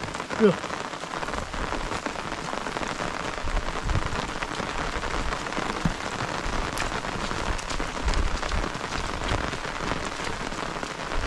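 Steady rain falling on a surface, a dense hiss with scattered drops ticking through it. A brief pitched call cuts in right at the start and is the loudest sound.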